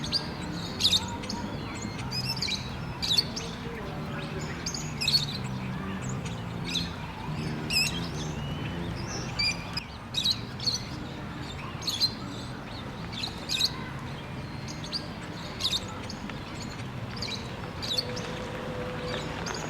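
Rosy-faced lovebirds calling: short, shrill chirps, about one or two a second, over a low steady hum.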